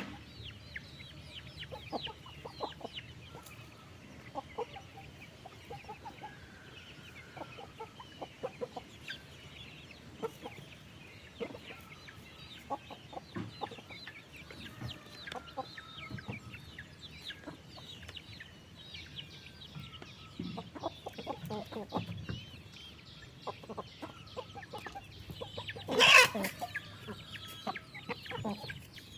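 A flock of chickens clucking, with many short overlapping calls. One louder noisy burst comes near the end.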